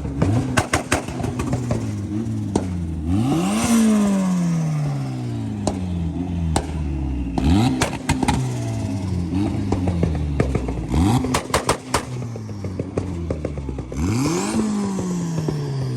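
Loud car engine revved hard three times: each rev climbs fast and drops back slowly toward idle, with smaller blips between and sharp cracks scattered through.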